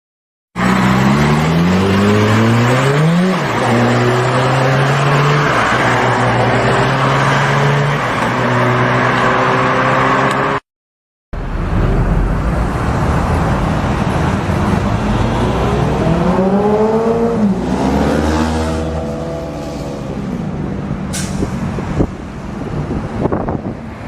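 Sportbike engines running hard, in two back-to-back clips. In the first, the revs climb and drop about three seconds in, then hold steady at a few pitch steps. The second is dense with road and wind noise, with the revs swelling and falling a couple of times about two-thirds of the way through.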